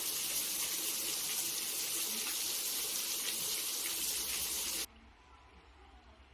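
Water jets of a trick fountain spraying and splashing, a steady loud hiss of water that cuts off abruptly about five seconds in, leaving a quiet background with faint voices.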